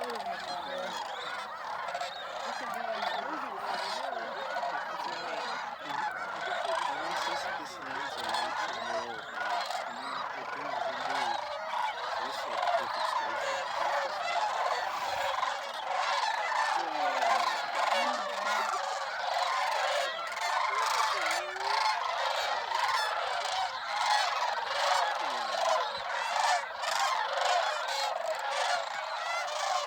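A huge flock of snow geese and sandhill cranes calling all at once, a dense, unbroken clamor of many overlapping honks and calls that grows a little louder after about twelve seconds.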